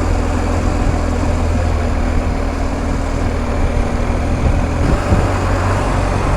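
BMW R1250 GS Adventure's boxer-twin engine running steadily under way, with a loud rush of wind and road noise; the engine note changes about five seconds in.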